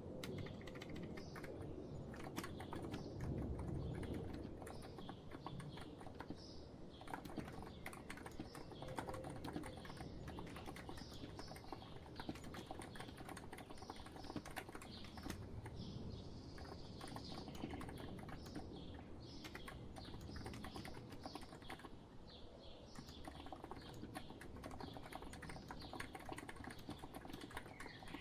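Steady typing on a COX Empress Living Coral Edition electrostatic capacitive (topre-style) keyboard: a quick, soft run of key presses. Birds chirp in the background.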